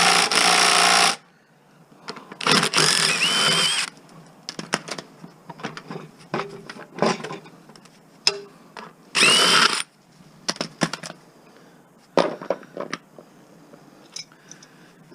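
Power drill run in three short bursts, about a second and a half, a second and a half, and half a second long, each with a brief rising whine near its end, as fasteners are driven out of a lawn mower being stripped for scrap. Small metal clicks and knocks from handling the parts come between the bursts.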